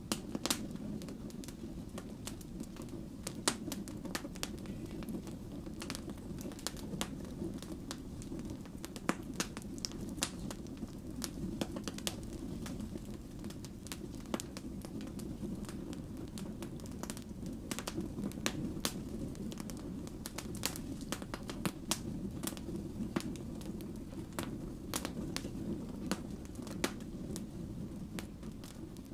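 Wood fire burning: a steady low rumble of flames with irregular sharp pops and crackles from the burning logs.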